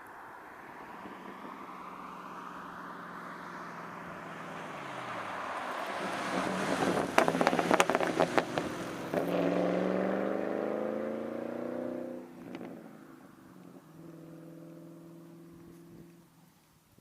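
Straight-piped 4.6-litre V8 exhaust of a 1999 Ford Mustang GT, mufflers deleted. It grows louder to a peak about seven to nine seconds in, then the engine note climbs steadily under acceleration, drops off suddenly about twelve seconds in, and settles to a steadier, quieter note.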